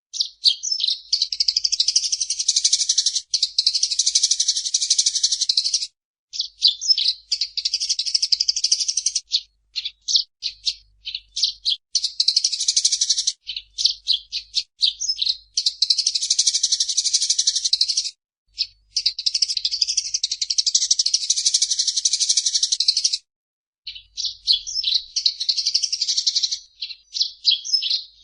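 Eurasian tree sparrow chattering vigorously: fast, high chirps run together in long bouts of several seconds, broken by brief pauses.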